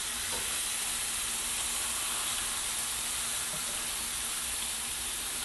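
Oil-coated marinated chicken sizzling steadily on a hot cast iron stovetop grill pan.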